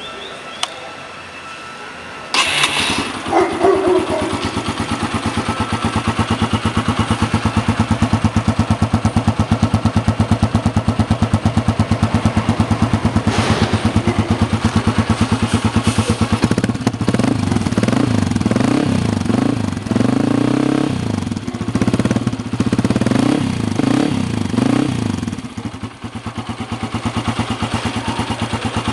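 Yamaha XTZ 125's single-cylinder four-stroke engine starting about two seconds in, breathing through an aluminium BRC aftermarket exhaust. It then idles with a steady rapid beat, is blipped up and down several times in the second half, and settles back to idle.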